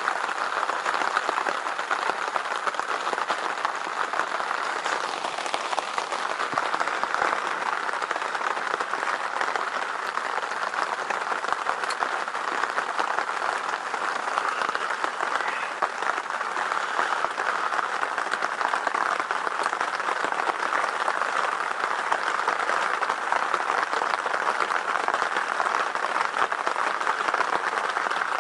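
Steady rain falling on a hunting blind, a dense, even patter of countless drops.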